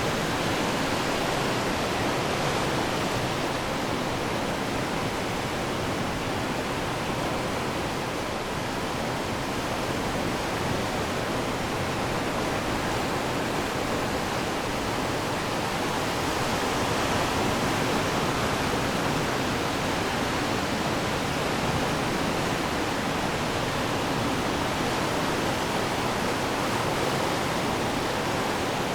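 Atlantic surf washing on the shore in a steady rush, with no single crash standing out and a slight swell in loudness a little past the middle.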